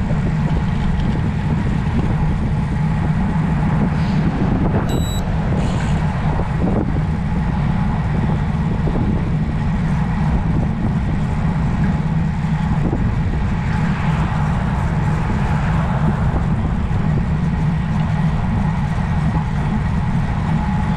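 Wind rushing over a cyclist's camera microphone while riding a road bike, a steady low rumble with road noise. A brief electronic beep sounds about five seconds in.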